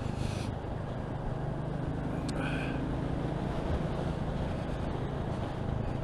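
Motorcycle engine running steadily at cruising speed, with road and wind noise on the microphone. A short click about two seconds in.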